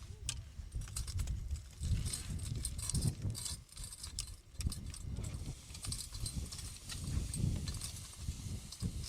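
Loose volcanic rock and cinder clicking and crunching in quick, irregular clatters, over a low uneven rumble.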